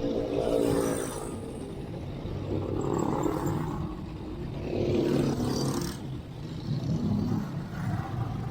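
Motor traffic passing a moving bicycle: three vehicles swell and fade in turn, about a second in, around three seconds and around five seconds, over a steady low rumble of wind and road noise.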